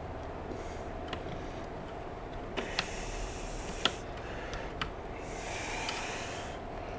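Small sharp clicks and taps of wire spade connectors being pulled off the arc welder's switch, about half a dozen spread out. Two long breaths out through the nose come about three and six seconds in, over a steady faint hum.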